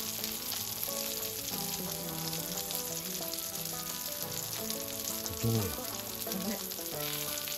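Salted offal (shio horumon) sizzling steadily in hot oil in an iron frying pan, with a continuous crackling hiss.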